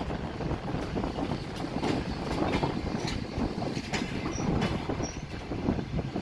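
Passenger coaches of an arriving train rolling past, wheels rumbling and clacking irregularly over the rail joints, with a couple of brief high wheel squeaks.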